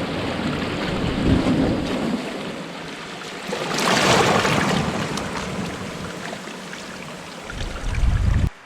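Water rushing and splashing around a sailboat's hull with wind gusting over the microphone, swelling to a louder surge about four seconds in. Low wind buffets near the end, then it cuts off.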